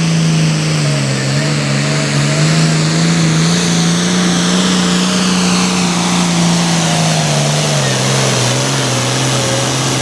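International Harvester 1466 hot farm pulling tractor with a turbocharged 466 cubic inch diesel running hard at high revs under load, dragging the weight sled. The engine note wavers and sags slightly near the end as the sled's load builds.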